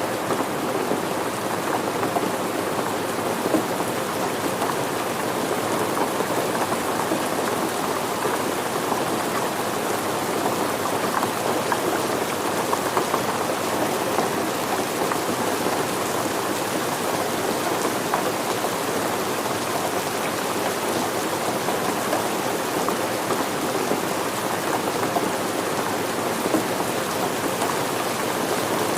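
Steady rain falling, a dense, even patter of drops with small flickers throughout and no rise or fall.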